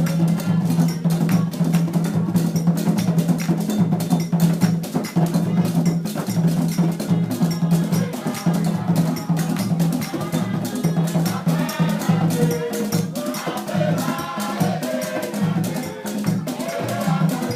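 Borborbor dance music: a percussion ensemble with a bell and drums playing a fast, steady rhythm, with voices singing over it in the second half.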